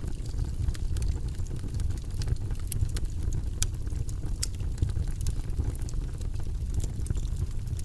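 Wood fire burning in a fireplace: a steady low rumble of flames with frequent crackles and pops from the logs, a few sharper pops in the middle.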